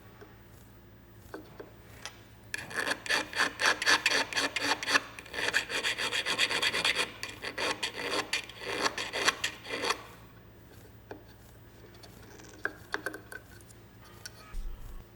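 Hand filing on a metal part: quick, even back-and-forth rasping strokes, several a second, in two runs with a short break between them.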